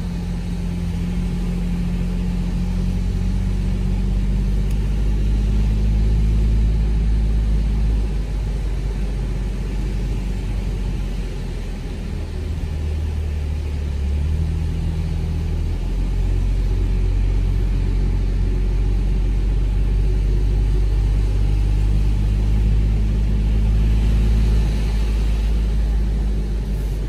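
Ford Bronco driving through loose sand, its engine and drivetrain under load making a steady low drone whose pitch rises and falls a few times with the throttle.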